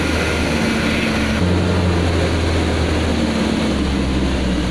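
Dump truck's diesel engine running with a steady low drone that shifts slightly about a second and a half in.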